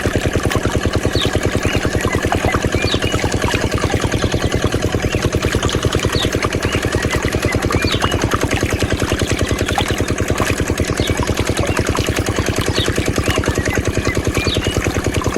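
Small diesel engine driving a water pump, running steadily with an even, rapid beat. Faint short high chirps sound over it now and then.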